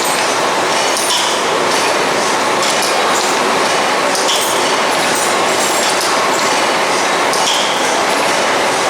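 Stationary steam mill engine running on steam: a steady mechanical noise with hiss, and light clicks and rattles coming at uneven intervals.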